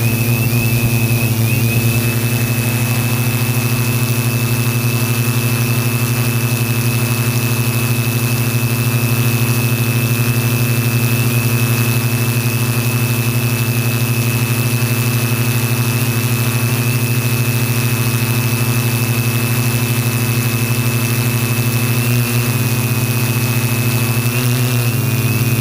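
Align M470 multirotor drone's electric motors and propellers humming steadily in flight, a low drone with a thin high whine over it. The pitch shifts briefly about 22 seconds in and again near the end.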